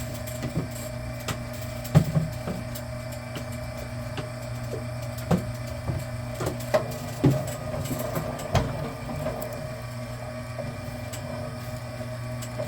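Vevor electric wire stripping machine running with a steady motor hum while a short length of Romex cable is fed through its Romex slot, with scattered sharp knocks and clicks as the cable goes through the rollers and blade, the loudest about two seconds in.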